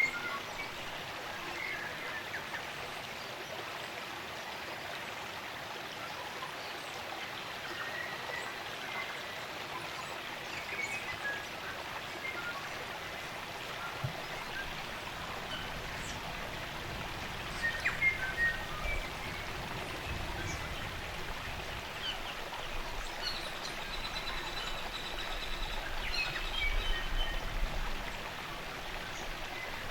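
Spring-fed stream running steadily, with New Zealand native forest birds chirping and calling over it now and then. Near the end one bird holds a steady high whistled note for about two seconds.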